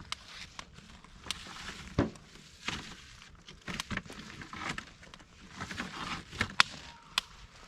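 Campfire of burning firewood crackling, with irregular sharp pops and snaps over a soft hiss; the loudest snaps come about two seconds in and near the end.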